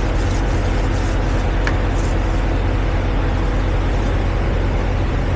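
Diesel truck engine idling steadily with a deep, even hum. A faint short squeak about one and a half seconds in.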